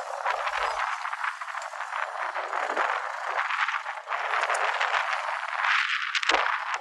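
Wind gusting across the microphone: a rough, crackly rushing noise that swells and eases in gusts, loudest near the end.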